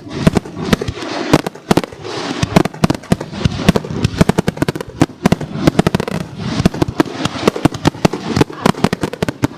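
Fireworks display going off in a dense barrage: overlapping bangs and bursts, several a second, with no let-up.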